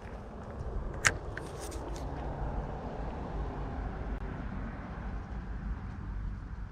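Steady low outdoor rumble, with a single sharp click about a second in and a few fainter ticks just after.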